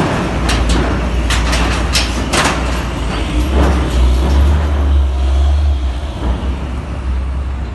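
Heavy diesel vehicle engine rumbling deep and steady, swelling for a few seconds in the middle, with a run of sharp knocks and clanks in the first couple of seconds.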